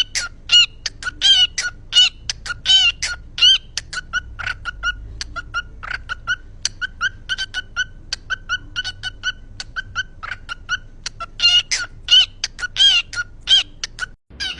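A parrot calls in a long, rapid series of short squawks, several a second, some bending in pitch, much like clucking. The calls stop abruptly near the end.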